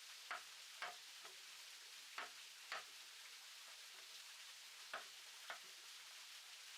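Faint steady hiss with sharp taps, mostly in pairs about half a second apart: three pairs and one fainter tap.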